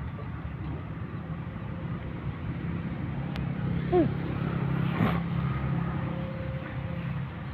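Freight train's diesel locomotive engine running with a steady low hum. A brief falling call about four seconds in is the loudest sound.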